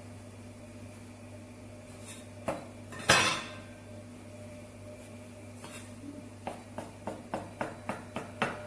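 Kitchen utensils clattering: two sharp knocks of metal and crockery, then a run of light, even taps, about three a second, under a steady low hum.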